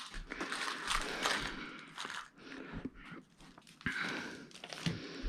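Handling noise of a flat-screen TV being reassembled: irregular rustling and light clicks and knocks of plastic parts and screws.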